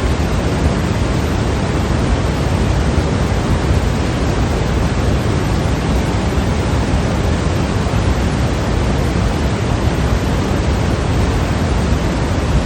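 Steady synthetic white noise for sleep or soothing a baby: an even, unchanging hiss, weighted toward the low end.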